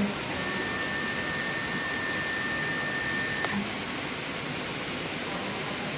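CNC router's stepper-driven axes whining with a steady high tone as the machine travels during homing, over a steady machine hiss; the whine stops about three and a half seconds in.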